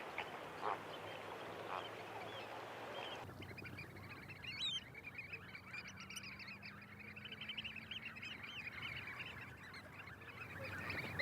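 A flock of wetland birds calling together: many short, high calls overlapping in a dense chorus. A couple of louder calls stand out in the first two seconds, and the background changes abruptly about three seconds in.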